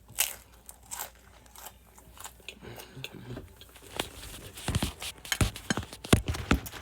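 A person eating pizza close to the microphone: irregular wet chewing and biting with sharp little crunches and clicks, coming more thickly from about four seconds in.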